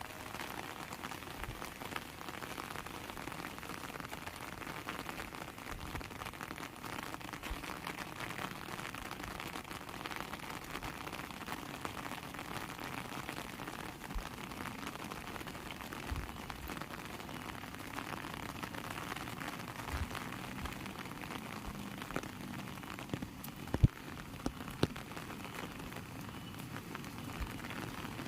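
Heavy rain falling steadily, a dense even hiss full of small drop ticks. A few sharper taps stand out near the end, the loudest about 24 seconds in.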